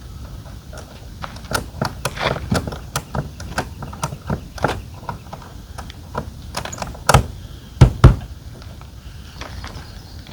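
Clicks, rattles and knocks of gear and hardware being handled on a pickup truck, then three heavy thumps about seven to eight seconds in.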